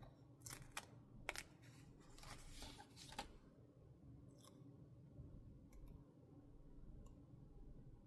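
Faint stationery handling on a desk while a paper journal is being decorated: a few sharp clicks, then about a second of crisp paper-and-scissors-like snipping and rustling two to three seconds in, followed by a few soft ticks.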